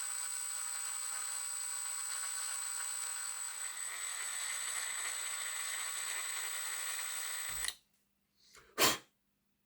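Electric drill running steadily at low speed, boring out the axle hole of a 3D-printed plastic gear, with a constant high whine; it stops suddenly about two seconds before the end, followed by a single short click.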